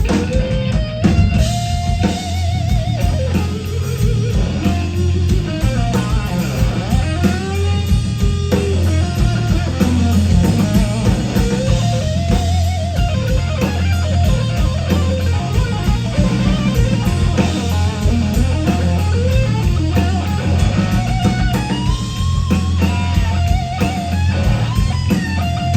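Rock band playing an instrumental passage: an electric lead guitar plays bending, wavering single notes over bass guitar and drum kit.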